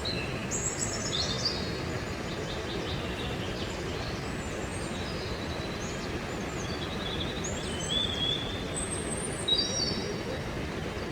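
Steady rushing roar of a waterfall, with birds chirping and singing over it throughout.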